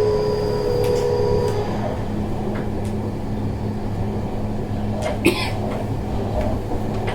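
Seibu 30000 series electric train running, heard from inside the car: a steady rumble of wheels on the track. The traction motors' whine cuts off about a second and a half in and a lower steady hum takes over. A short sharp noise comes about five seconds in.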